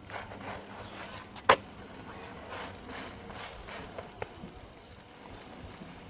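Low charcoal fire in a clay kanoun brazier crackling faintly under msemen flatbreads frying on a pan, with one sharp click about a second and a half in and a smaller one near four seconds.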